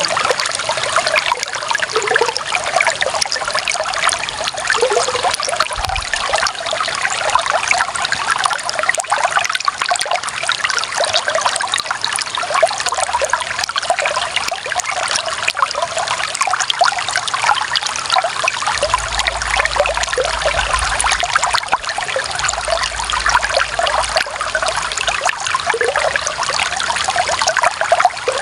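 Clear water running and trickling steadily, a dense bubbling splash with many small droplet flecks and no pauses.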